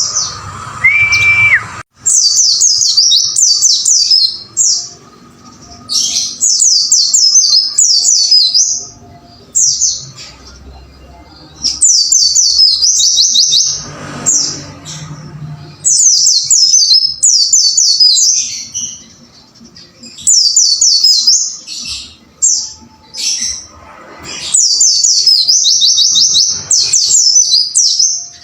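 Pleci (white-eye, Zosterops) singing a fast, high twittering song. It comes in bursts of one to two seconds, each a quick run of falling notes, with short pauses between.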